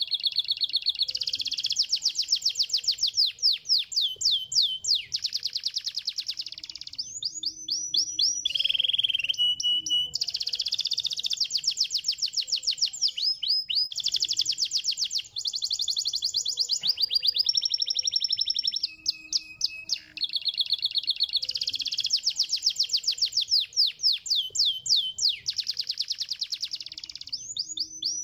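Domestic canary singing continuously: a chain of rapid trills, each a fast run of the same note repeated, switching to a new trill every second or two, with a few quick falling whistled notes between.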